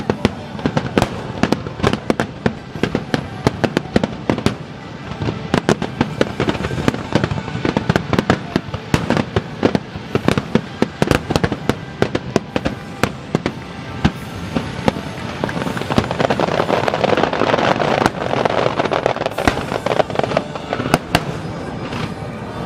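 Aerial firework shells bursting in quick, overlapping succession, many sharp bangs. From about two-thirds of the way through, a denser, steadier rush of noise builds under the bangs.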